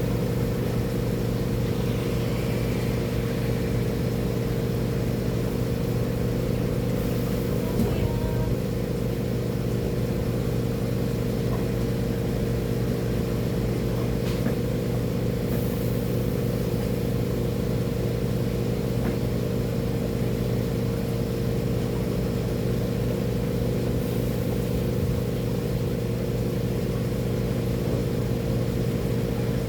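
An engine running steadily at constant speed: an unchanging low drone with several fixed tones, and a few faint clicks.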